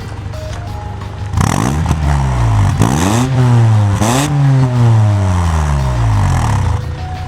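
Honda Step WGN RF1's exhaust as its 2.0-litre four-cylinder engine is revved from idle three times, each rev rising and dropping. The last rev falls slowly back to idle near the end.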